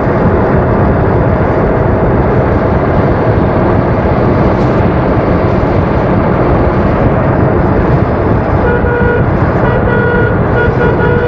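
Loud rumble and wind noise of a vehicle driving along a mountain road, steady throughout. Near the end a vehicle horn sounds in several short toots.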